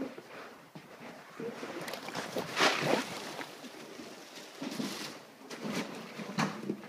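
Irregular bursts of rustling, scraping noise, the loudest about two and a half to three seconds in, with shorter ones near the end.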